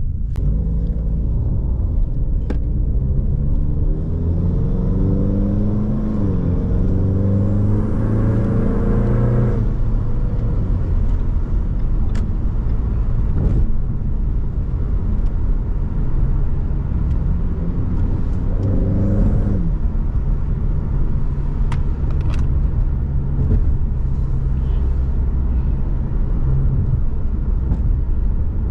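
Turbocharged Ford Mustang engine accelerating hard: its pitch climbs, dips at a gear change about six seconds in, climbs again, then drops off as the throttle lifts near ten seconds. A second short pull comes around nineteen seconds, then the engine cruises steadily, all over a constant low road and wind rumble.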